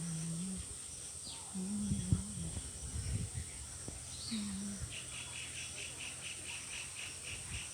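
Outdoor pond ambience: a steady high insect drone, a couple of short bird chirps, and from about five seconds in a rapid chirping call repeated three to four times a second. Low murmuring voices and a few knocks come in the first half.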